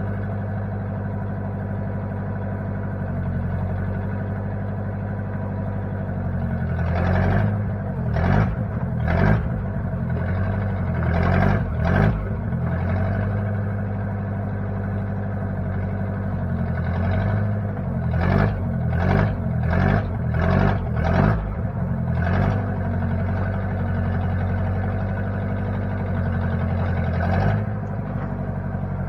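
Case 540 backhoe's engine running steadily. In two spells, about seven seconds in and again around eighteen seconds, come short louder bursts about one a second.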